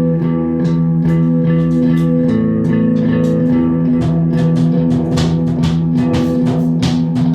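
A guitar and a drum kit playing together: the guitar holds sustained chords, shifting to a new chord about two seconds in, while the drums' cymbal strikes come thicker from about halfway on.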